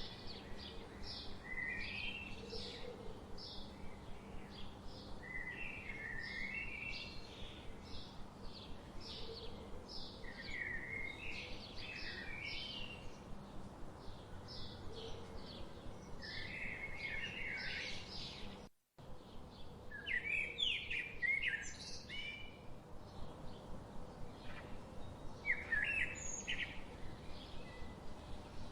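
Forest birds singing: a fast string of short, high chirps, several a second, over lower warbling phrases from other birds. The sound cuts out completely for a split second about two-thirds of the way through.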